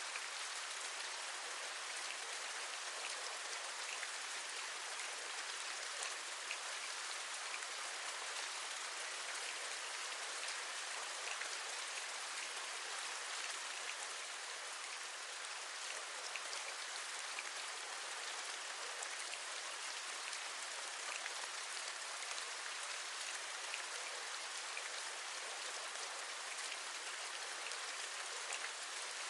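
Steady rain: an even hiss with many small raindrop taps scattered through it.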